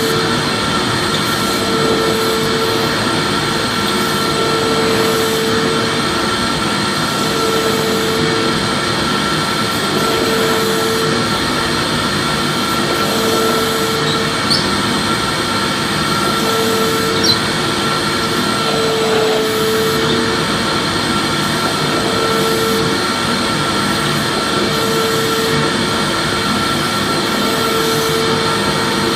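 Vacuum cleaner motor running steadily, a loud even rushing whine with a steady high tone, and a lower hum that swells and fades about every three seconds.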